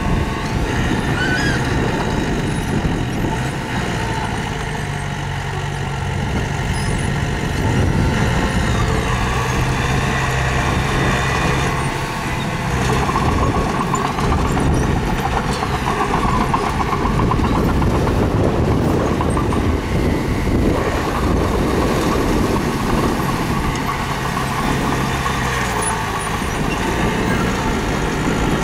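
Diesel engines of heavy earthmoving machinery, a mini bulldozer working with a stone dump truck, running steadily under load, the engine note shifting up and down several times.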